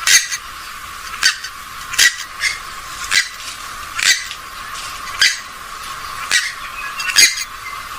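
Repeated short, sharp calls of a rail, about one a second, over a steady background hiss.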